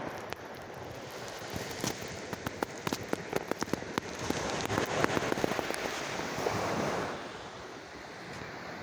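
Sea waves washing in, with a rapid crackle of sharp clicks as a wave breaks. The surge swells about four seconds in and falls away after about seven seconds.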